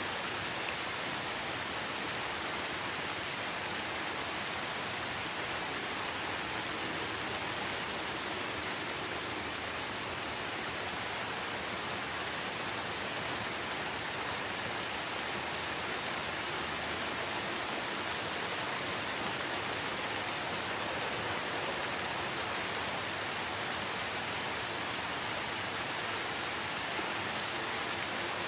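Steady rain falling, an even hiss with no let-up and a few individual drops ticking through it.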